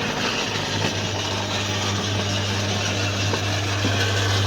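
Fruit shredder-grinder running with fruit in its hopper: a steady motor hum under a rough grinding noise, with a few faint knocks, growing slightly louder near the end. The fruit is going through very slowly and jamming up.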